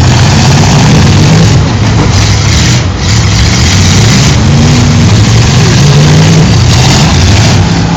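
Old full-size sedans' engines running loudly in a demolition derby, revving up and down in waves.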